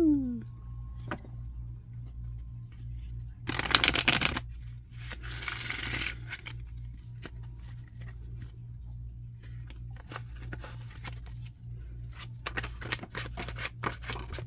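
Tarot cards being shuffled by hand: a loud riffle about four seconds in, a softer sliding shuffle just after, then a run of quick card flicks and clicks in the last few seconds. A steady low hum lies underneath.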